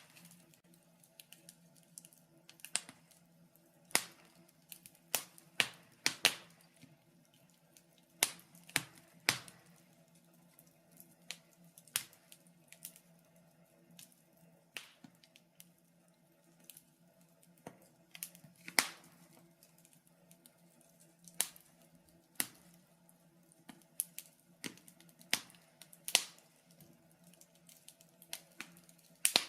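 Wood fire crackling in a fireplace: irregular sharp pops and snaps, some close together and some a second or more apart, over a faint steady hum.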